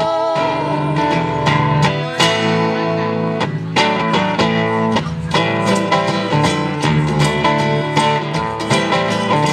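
Guitars playing an instrumental break in a live country-rock song, strummed chords in a steady rhythm with picked notes over them.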